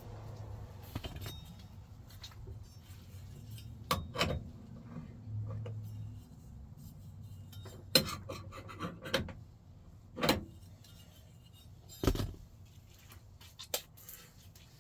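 Metal parts and hand tools clinking and knocking during work on a truck door's latch and handle mechanism: about half a dozen sharp, irregularly spaced clinks over a low steady hum.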